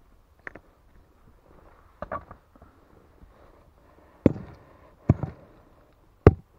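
A digging tool striking stone and packed earth: about five separate knocks at uneven intervals, the last three the loudest.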